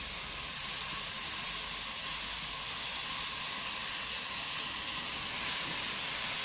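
Uncooked rice and browned vermicelli sizzling steadily in hot ghee in a pot, the rice just added to the pan.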